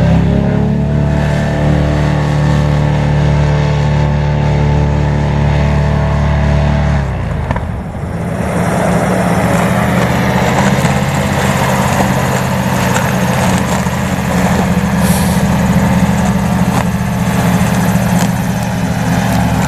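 Airboat's Toyota 3UR 5.7-litre V8 and six-blade propeller running steadily. About seven seconds in the engine note breaks and dips, then settles into a new steady note with more rushing noise.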